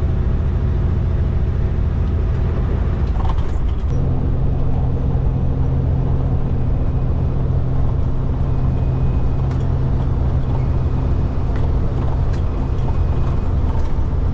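Kenworth cabover road train's diesel engine running steadily under way, heard from inside the cab over tyre and road noise. About four seconds in, the engine note shifts to a new steady pitch.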